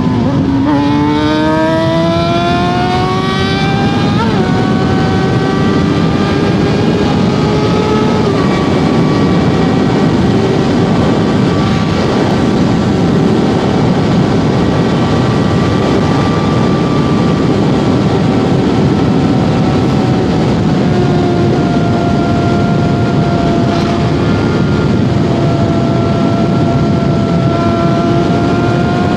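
Suzuki GSX-R750's inline-four engine pulling up through the gears, its pitch rising over the first few seconds with upshifts about four and eight seconds in, then holding a steady cruise. It is heard over heavy wind and road rush.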